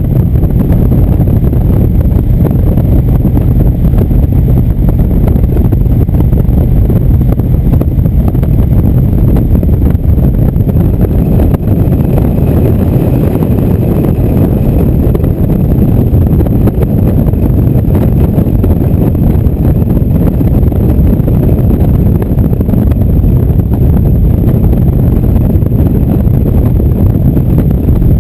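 Indian motorcycle running steadily at road speed, its engine drone mixed with heavy wind noise on the microphone.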